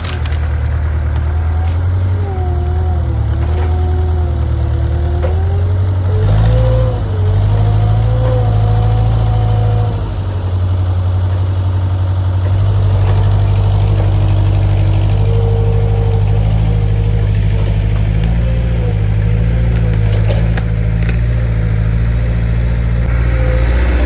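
Skid steer loader's engine running loudly and steadily while the machine is worked, with a whine above it that wavers up and down in pitch and briefly drops about six and ten seconds in.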